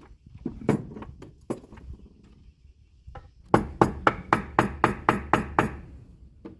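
Hammering on wood: a few irregular knocks, then a quick run of about nine even blows, roughly four a second.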